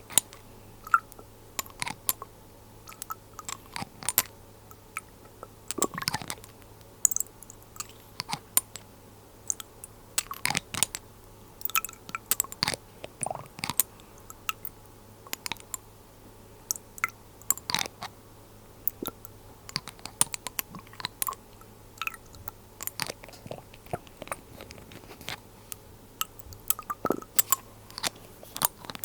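Close-miked glass dropper bottles being handled, giving an irregular string of sharp taps, clicks and crackles, some with a brief ring.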